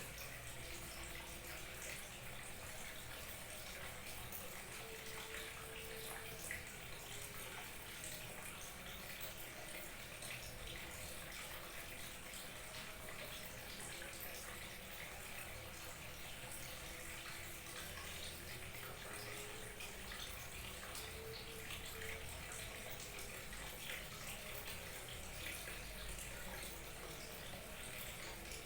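Water splashing and trickling over a small waterfall, a steady rush of water.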